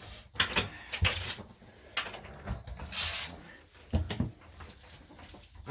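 Washing noises of a small dog being soaped in a grooming tub: scattered knocks against the tub and a few short hissing bursts.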